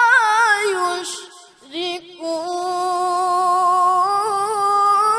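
Quran recitation in the melodic tilawah style by a male qari with a high, clear voice: a long melismatic held vowel on 'amma' with quick ornamental turns, which stops for a breath about a second in. The voice then comes back on a long sustained note that rises in pitch and ends in rapid trills.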